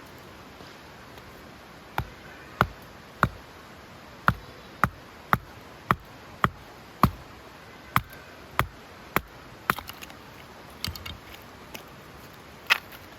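Chopping: about thirteen sharp strikes at a steady pace, roughly one and a half a second, then a few lighter clicks and one last sharp knock near the end.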